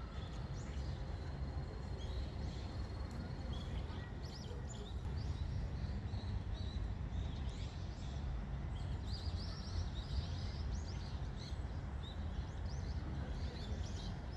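Small birds chirping in short repeated calls, busiest in the middle, over a steady low rumble.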